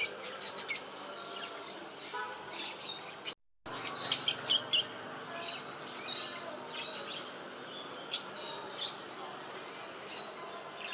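Small cage birds chirping in quick clusters of short, high-pitched chirps, one cluster at the start and another about four seconds in, then scattered single chirps. The sound drops out completely for a moment a little past three seconds in.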